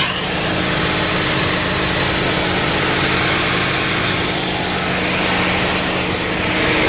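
2013 Chevy Equinox's 2.4-litre four-cylinder engine idling with a steady low hum, under a loud, even rushing hiss.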